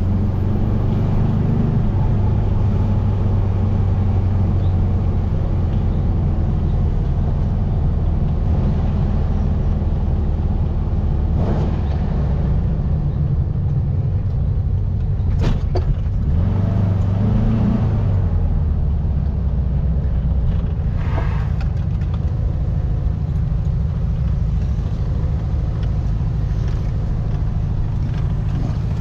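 1700cc air-cooled VW flat-four engine of a Baja Bug driving along, a steady low drone. A little past the middle its pitch rises briefly and falls back. A few short clicks come through over it.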